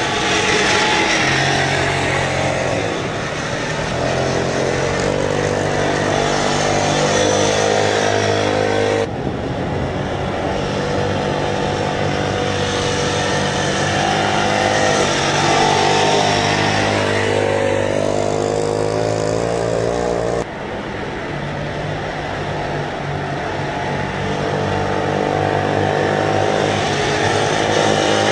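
Mini GP pocket bikes' small engines running at race speed, their high-pitched notes rising and falling as they rev through corners and straights. The sound changes abruptly twice, about 9 and 20 seconds in.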